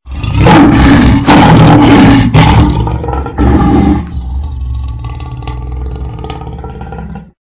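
Tiger roaring: several loud roars in the first four seconds, then a softer, lower rumbling sound that cuts off abruptly.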